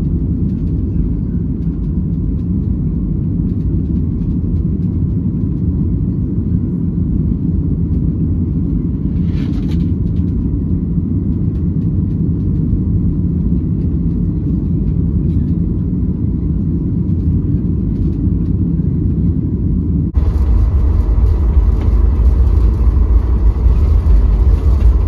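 Airliner cabin noise of a Southwest Boeing 737: a steady low rumble from the engines and airflow. About 20 seconds in it jumps abruptly to a louder rumble with much more hiss.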